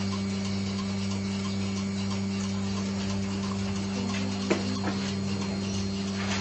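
Steady electric machine hum, with faint ticking and two short knocks about four and a half seconds in.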